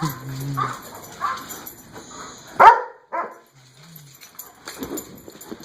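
Dog barking: a few softer yips, then one loud, sharp bark a little under three seconds in, followed by a faint whine.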